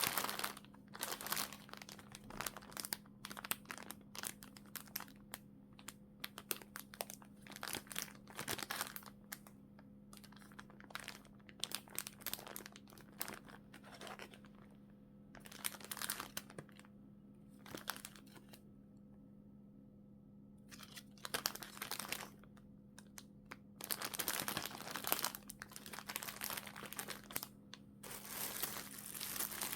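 Plastic packaging film being handled, crinkling and rustling in irregular bursts, some loud and some soft, with a short pause about two-thirds of the way through. A faint steady hum sits underneath.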